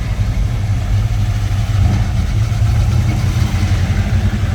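A car engine idling with a steady, deep rumble close by.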